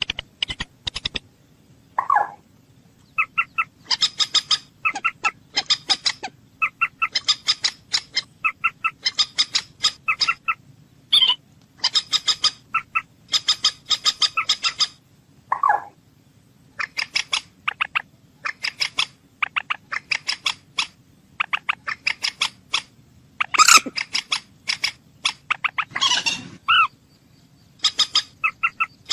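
Common moorhen calling: bursts of rapid, short clicking notes about a second long, repeated one after another, with an occasional lower falling call between them.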